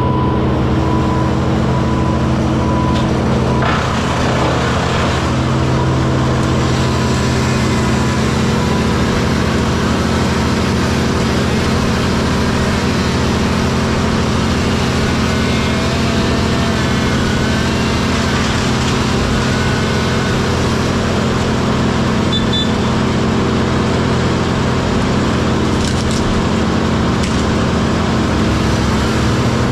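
Diesel engine of heavy equipment running steadily at a constant speed, with a faint wavering whine higher up in the middle.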